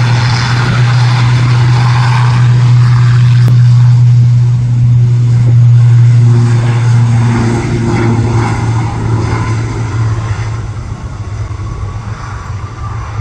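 Aircraft engines passing close by, loud and steady with a strong low hum, fading over the last few seconds.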